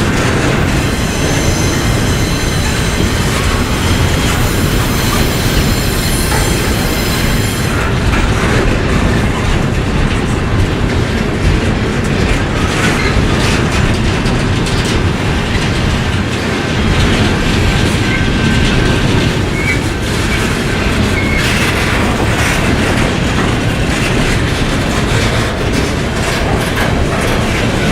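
Norfolk Southern freight train rolling past at close range, a steady loud rumble and clatter of wheels over the rail. A thin high-pitched wheel squeal rides on top for the first eight seconds or so.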